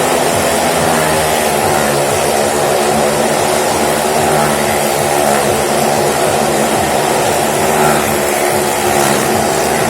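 Engines of stunt vehicles circling the wall of a well-of-death pit, a loud continuous drone held at steady revs with only slight rises and dips in pitch.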